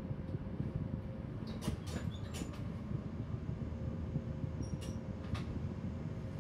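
Train cab interior with the train standing at the platform: a steady low rumble and hum from the train's running equipment with a faint steady whine. A handful of short sharp clicks come through, about two seconds in, around two and a half seconds and near the end.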